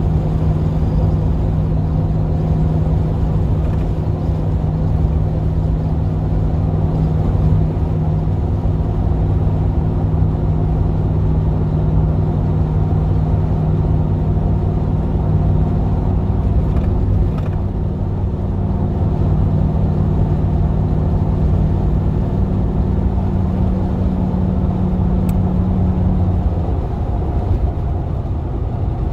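GMC Vandura / Chevrolet G20 van's V8 engine running at a steady pitch while driving, with road noise under it. Near the end the engine note drops and the sound briefly gets quieter as the van eases off.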